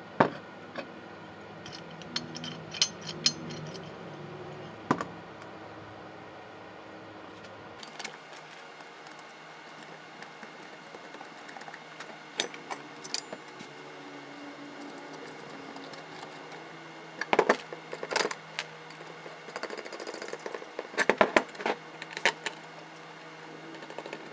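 Scattered sharp metallic clicks and clinks, in several short clusters, over a faint low steady hum.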